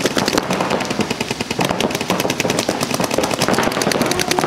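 Several paintball markers firing rapid strings of shots at once, a dense, continuous popping.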